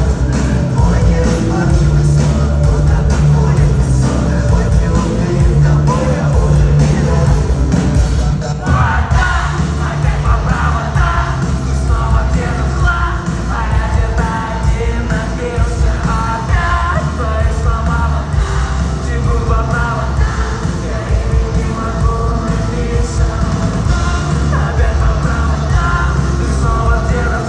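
A live rock band playing loudly with heavy bass and drums; a singing voice comes in about eight seconds in and carries on over the band.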